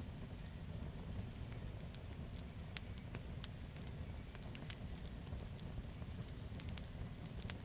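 Campfire burning: scattered, irregular crackles and pops from the burning wood over a low, steady rumble of the flames.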